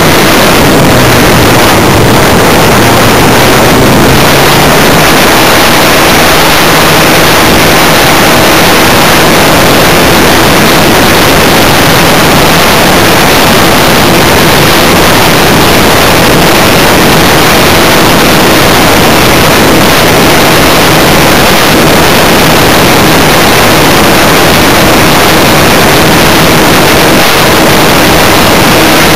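The engine and propeller of a Funtana S90 radio-controlled aerobatic airplane running in flight, heard through a loud, distorted rush of wind, with the engine note shifting in pitch now and then.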